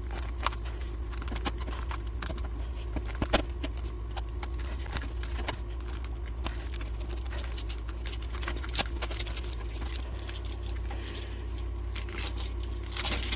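Luffa gourd skin being pulled and peeled away from the fibrous sponge inside by hand, giving scattered crackles and rustles, over a steady low hum.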